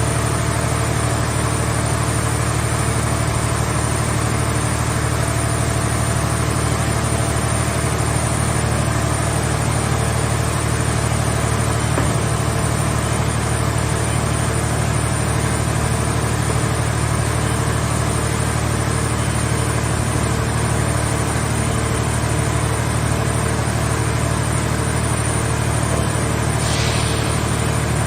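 Engine of a mobile vehicle-shell baler running steadily, a constant low hum with no change in speed.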